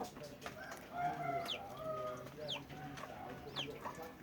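Chickens clucking, with three short high calls about a second apart that fall sharply in pitch.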